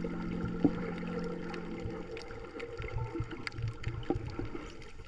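Sea water sloshing and gurgling with many small clicks and low thumps, as water moves around a swimmer's camera. A held music chord fades out about two seconds in.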